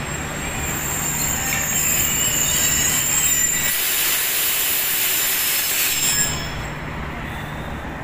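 Pakistan Railways passenger coaches rolling past at low speed as the train pulls in, with a high-pitched metallic squeal over the rumble of the wheels. The squeal is loudest in the middle and eases off after about six seconds.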